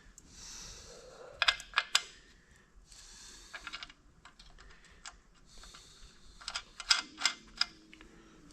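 Sharp clicks and clinks of hand tools and metal parts being worked, in scattered clusters, with a few short hissing stretches in between.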